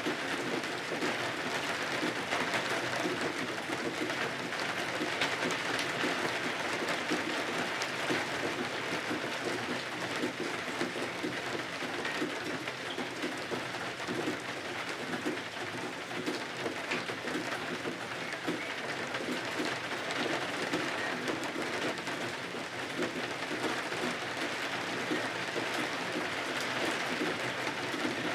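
Steady rain falling and pattering on windows and surfaces, an even hiss of dense fine drops.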